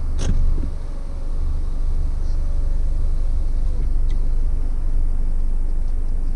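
Vehicle engine idling with a steady low rumble, heard from inside the stationary campervan, with a sharp click just after the start.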